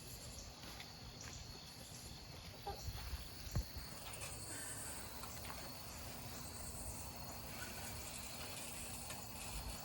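Evening insects such as crickets singing in a steady high-pitched drone, with a few faint knocks.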